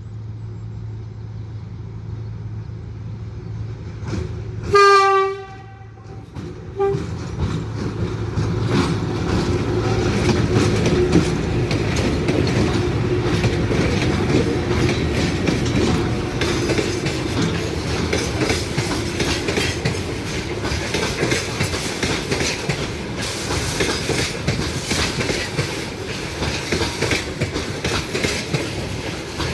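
Train horn sounds one loud blast of about a second, with a short second toot just after. Then the train runs past with a continuous clatter of wheels over the rails.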